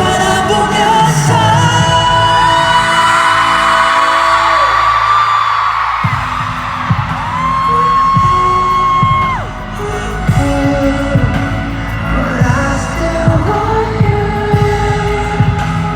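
Live pop concert music heard through a phone microphone: long held sung or synth notes, then a steady drum beat starts about six seconds in.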